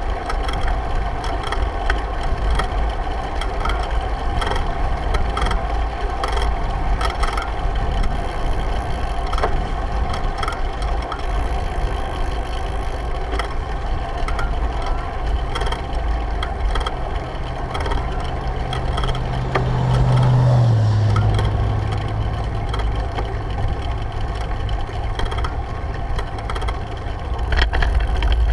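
Wind buffeting a bicycle-mounted camera's microphone over the rattle and clicking of the bike on the road. About two-thirds of the way through, a passing vehicle's engine hum grows louder and then drops in pitch as it goes by.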